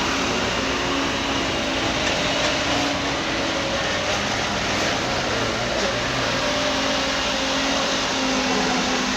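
A heavy vehicle's diesel engine running steadily under a dense rushing noise, with a faint low hum that wavers slightly in pitch.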